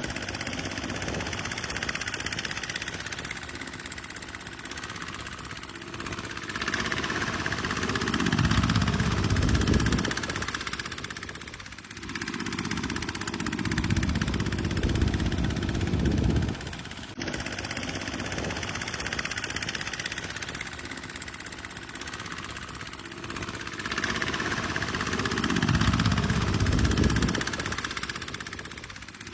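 Tractor diesel engine running under varying load, its deep note swelling and easing in surges every few seconds, with a sudden break a little past halfway.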